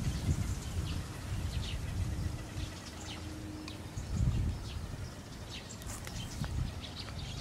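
Birds chirping: many short, high, scattered chirps over a steady low rumble.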